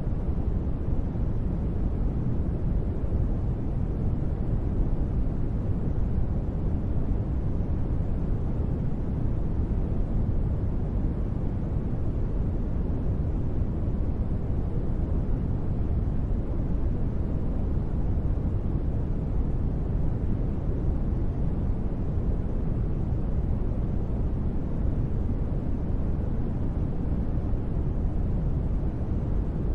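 Steady synthesized noise ambience, deep and rumbling with little high hiss, unchanging.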